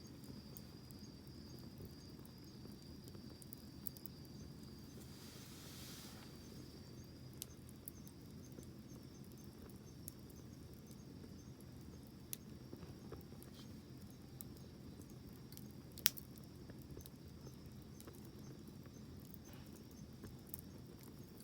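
Campfire burning with scattered sharp crackles and pops, the loudest about 16 seconds in, and a brief hiss about five seconds in. A steady high insect trill runs underneath.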